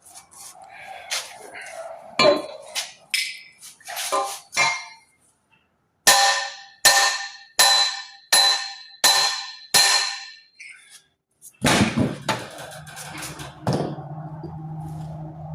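Hammer blows on a broken exhaust stud in a VW cylinder head, struck to shock it loose: a few lighter knocks, then a run of about seven sharp, ringing metal strikes, roughly one and a half a second. Near the end a steady low hum with a hiss starts.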